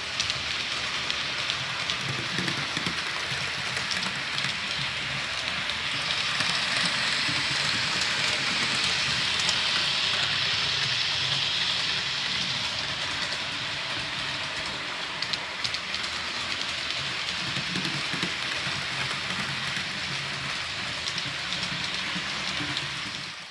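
Hornby OO gauge model HST trains running around a track: a steady whirring of the electric motors with wheels rattling over the rails, growing louder midway as a train passes close, then cutting off suddenly at the end.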